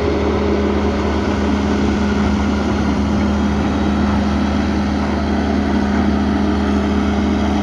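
Rack railway train's engine running steadily on the climb: a constant low rumble with an even hum over it.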